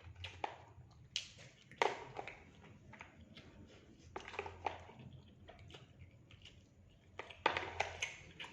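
Close-miked eating: chewing fried rice and fried rabbitfish, with irregular crunches and mouth clicks, the loudest about two seconds in and near the end.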